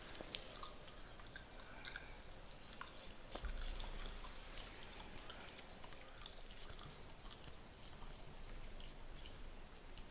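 Fingers scratching and rubbing through a beard and over skin close to the microphone: irregular fine crackling and scratching, with a soft low bump about three and a half seconds in.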